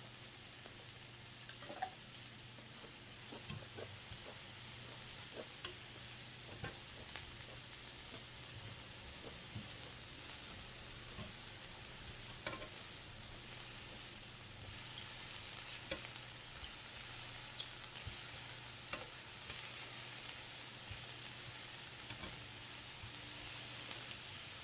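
Food sizzling on a tabletop grill, a steady crackling hiss with small pops scattered through it, a little louder about halfway through.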